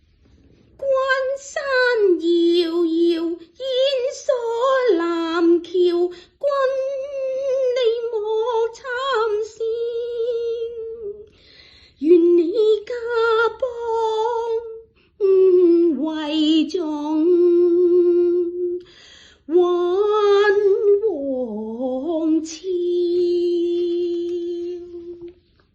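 A woman singing Cantonese opera unaccompanied, with long held, wavering notes in several phrases broken by short pauses for breath.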